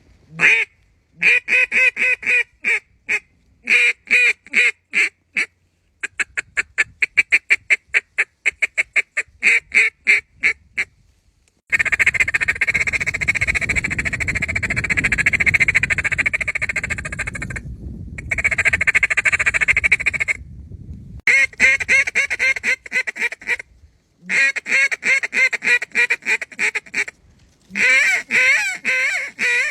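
Duck and goose calling: runs of quacks and honks, some fast and evenly spaced, with a long dense stretch of continuous calling in the middle, broken by sudden cut-offs.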